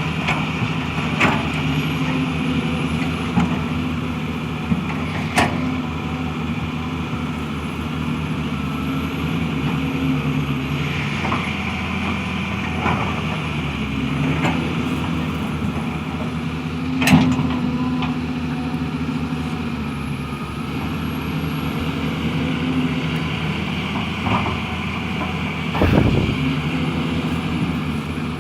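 Hydraulic excavator's diesel engine running steadily under work, with a few sharp knocks scattered through.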